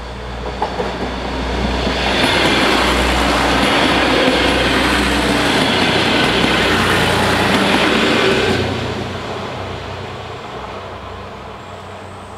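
A Trenitalia regional diesel railcar passes over a level crossing. Its rumble builds over about two seconds, holds loud for some six seconds as the wheels run over the rails, then fades away as it goes.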